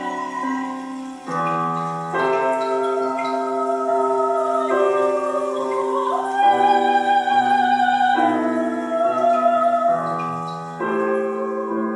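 A soprano singing long, wavering high notes over a piano playing slow, sustained chords that change every second or two.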